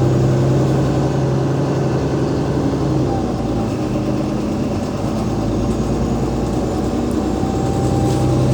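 Double-deck bus's Cummins ISL8.9 diesel engine and ZF Ecolife automatic gearbox running, heard from on board, with a steady low hum that eases off mid-way and comes back. A faint whine rises slowly near the end.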